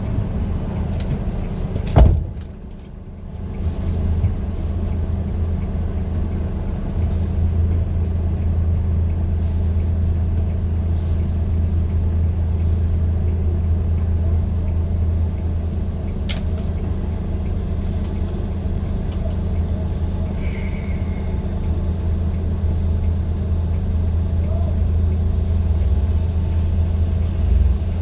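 Steady low rumble of a running vehicle engine and road noise. A sharp knock about two seconds in is followed by a brief drop in the rumble, and there is a smaller knock near the end.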